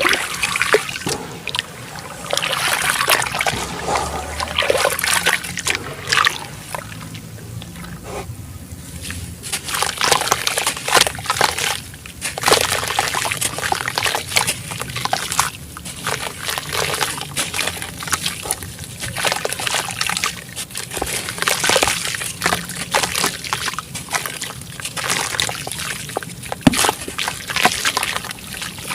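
Chunks of black sand-cement crumbling as they are dipped in water: water sloshing and dribbling, with many small crackles in irregular surges.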